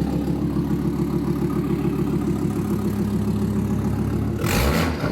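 Volvo S60 2.0 petrol engine idling through a straight-through exhaust with no catalytic converter, a steady, deep chuggy exhaust note. Near the end it breaks abruptly into a louder, rougher rush.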